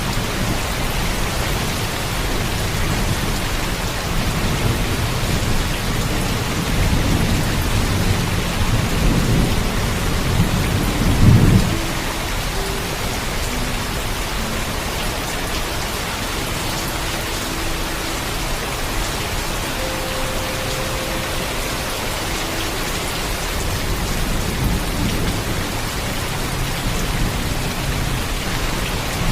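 Heavy rain falling steadily, with low rumbling thunder that builds to a peak about eleven seconds in, then eases, and rolls again faintly near the end.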